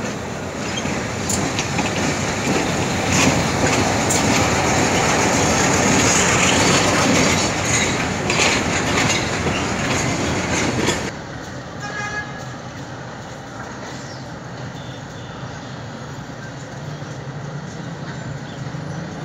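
Diesel shunting locomotive and a rake of tank wagons rolling past close by, the engine running and the wheels clicking over rail joints. About eleven seconds in the sound drops abruptly to a quieter, more distant train rumble.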